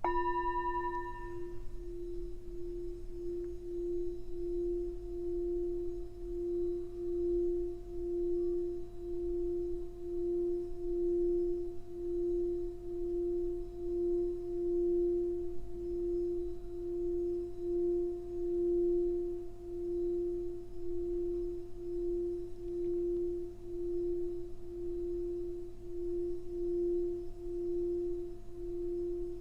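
Singing bowl struck at the start, with bright high overtones that die away within a second or two, then kept singing as one long steady tone that swells and fades about once a second.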